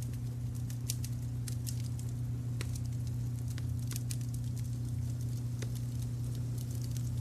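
Wood fire crackling, with irregular sharp pops and ticks, over a steady low rumble of brown noise.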